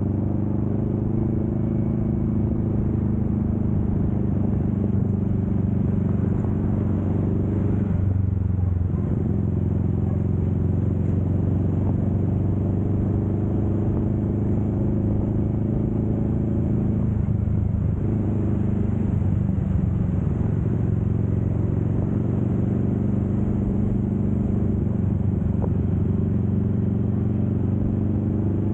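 Kawasaki Vulcan S 650's parallel-twin engine running steadily at cruising speed. The engine note dips briefly and then settles again twice, about a third of the way in and a little past halfway.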